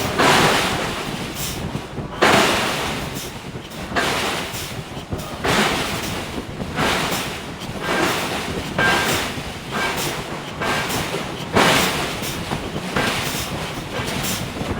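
Giant hydraulic forging hammer striking hot steel over and over, heavy blows landing roughly once a second at an uneven pace.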